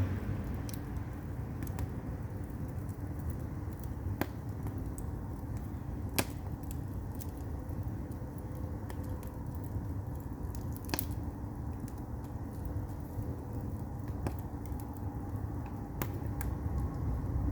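Split firewood burning in an agungi, a traditional Korean firebox: a steady low rumble with scattered sharp pops and crackles, the sharpest about six and eleven seconds in.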